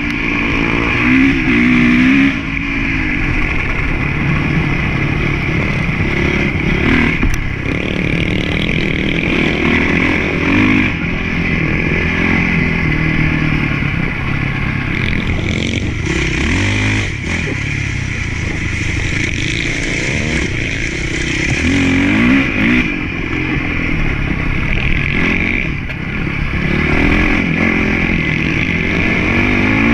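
Motocross bike engine being ridden, revving up and down over and over as the throttle is opened and closed.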